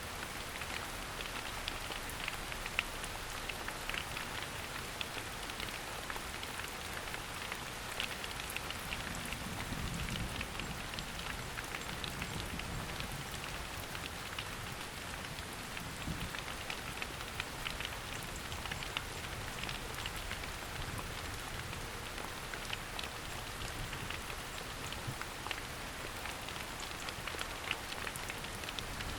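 Steady rain falling in a forest, a continuous patter dotted with many individual drops tapping close by.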